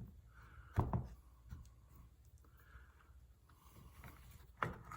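Small parts of a car headlight motor and gear assembly being handled and pressed into place: a few light clicks and ticks, with a sharper knock about a second in and another near the end.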